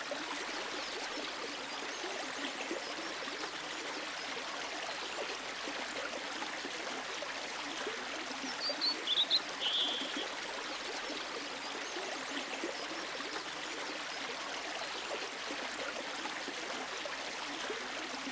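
Quiet river sound effect: water flowing and trickling in a steady stream, with a few brief high chirps about halfway through.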